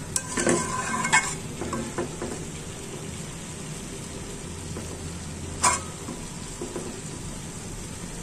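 Shredded cabbage and small shrimp sizzling as they fry uncovered in a wide pan, stirred and scraped with a spatula. There are several quick stirring strokes in the first two seconds, then a steady sizzle with one sharp scrape a little before six seconds in.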